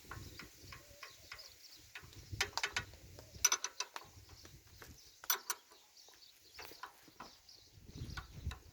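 Scattered metallic clicks and clinks of spanners working on the valve gear of a stopped Deutz two-cylinder diesel engine while the tappet clearances are adjusted.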